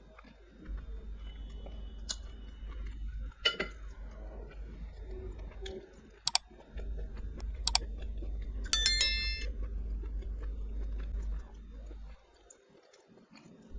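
Close-miked chewing and mouth sounds of someone eating curry and rice, with a few sharp clicks and one brief bright ringing clink about nine seconds in.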